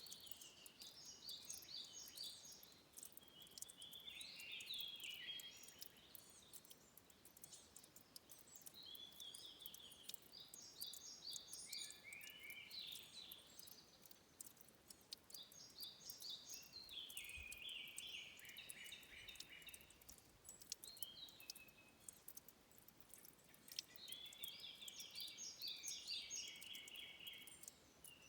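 A songbird singing short, quick, trilled phrases, one every three to four seconds, over faint scattered clicks in a quiet forest.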